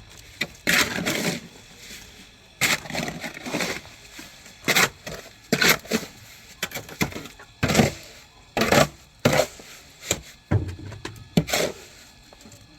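Building materials being handled: irregular knocks and clatter with a few longer scraping stretches, about a dozen sharp hits in all.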